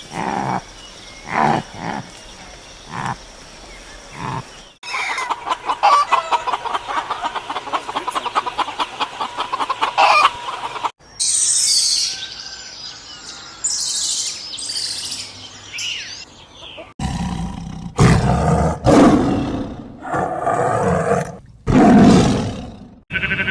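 A run of different wild animals' calls, cut one after another. There are a few separate short calls, then a fast, even pulsing call for about six seconds, then high-pitched calls. Near the end come several loud, deep calls.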